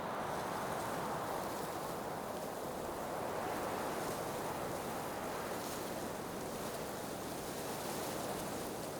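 Blizzard wind blowing steadily, an even wash of noise with no single gust standing out.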